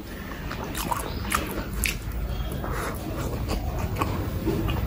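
Close-miked chewing of a steamed chicken momo, with scattered short wet mouth clicks and smacks.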